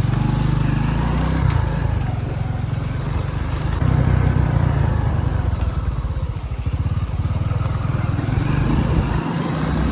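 Motorbike engine running as the bike is ridden, its pulsing note rising and easing slightly, a little louder about four seconds in.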